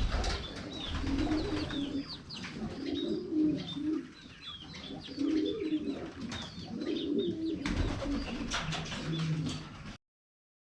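Domestic pigeons cooing in repeated low phrases, with short high chirps above them.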